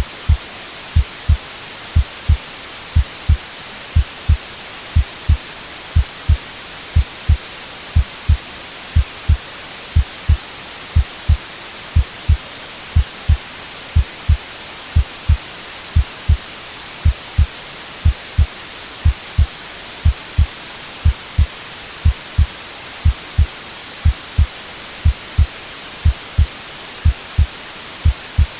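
Steady hiss of white noise with a heartbeat beneath it: low double thumps, lub-dub, about once a second, very even.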